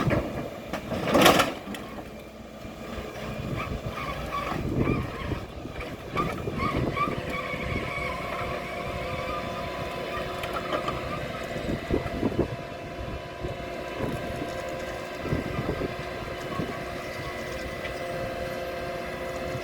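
Vehicle engine noise, with a loud rush about a second in and steady engine tones after.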